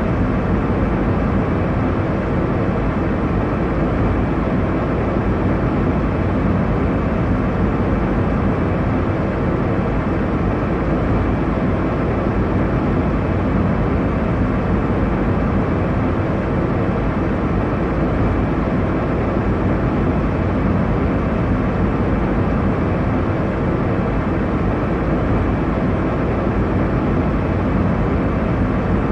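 Steady airliner cabin noise in flight: a constant low rushing drone of engines and airflow, without change.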